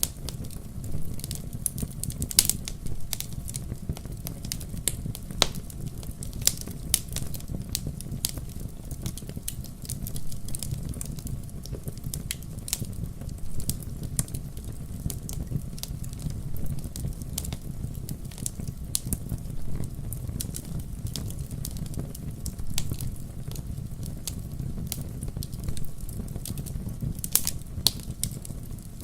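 Wood fire in a fireplace crackling and popping, with many irregular sharp snaps over a steady low rumble of flames. Louder pops stand out about two seconds in, around five seconds in, and near the end.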